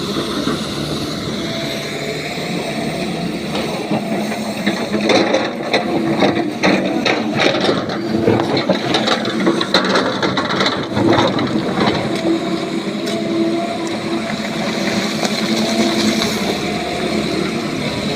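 Excavator's diesel engine running steadily under load, with a run of clattering knocks and bangs from about four to twelve seconds in as rock is loaded into a dump truck.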